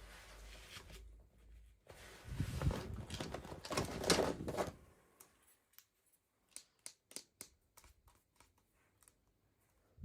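Rustling and crinkling as toy packaging is handled and opened, followed in the second half by a quick run of small, sharp clicks and taps.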